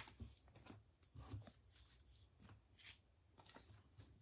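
Faint clicks and soft rustling of trading cards being handled and set down, a few light taps scattered through a near-silent room.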